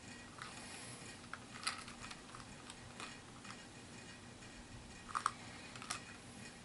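Faint, scattered clicks and light taps of plastic miniature figures and booster packaging being handled, a few distinct ticks spread over several seconds.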